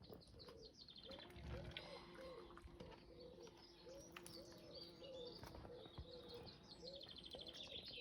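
Ducklings peeping, faint high chirps over a steady string of short, lower calls repeated about twice a second.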